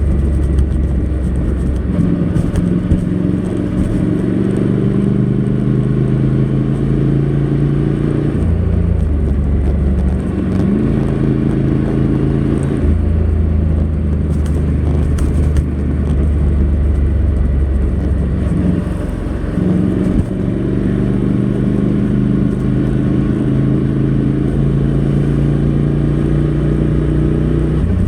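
Honda NC700X's 670 cc parallel-twin engine running through its stock exhaust under way. The engine note steps to a new pitch several times, with a short rise about ten seconds in.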